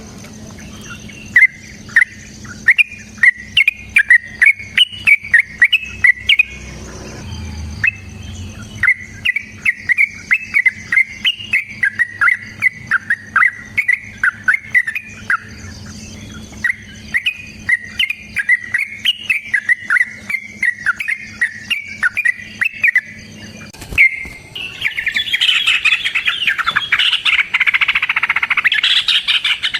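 Yellow-vented bulbul (trucukan) singing a long series of short, loud notes, about two or three a second. About 25 seconds in it breaks into dense, rapid chattering.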